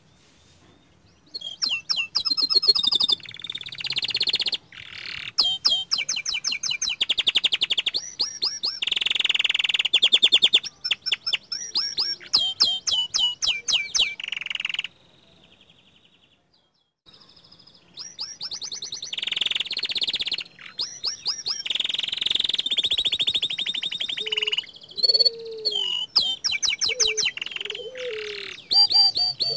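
Young domestic canary singing long, fast trills of rapid repeated notes and buzzy rolls. The song comes in two long stretches with a pause of about two seconds in the middle.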